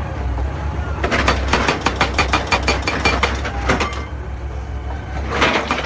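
Excavator's diesel engine running steadily under a fast run of sharp clattering knocks. The knocks start about a second in, stop near four seconds, and start again near the end.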